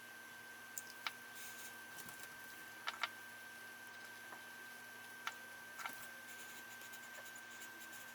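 A few light clicks and taps, scattered over several seconds, with a faint steady high whine underneath.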